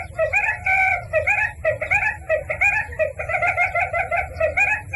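A bird calling in fast, continuous chattering runs of short repeated notes, about five or six a second, with a short break about a second and a half in.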